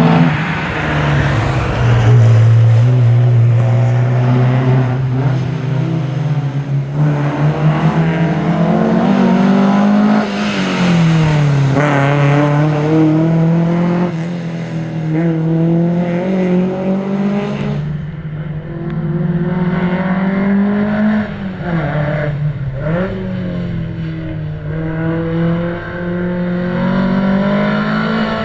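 1961 Volvo 122S rally car's four-cylinder engine driven hard through the gears, its pitch climbing under acceleration, then dropping sharply at each gear change or lift-off, several times over.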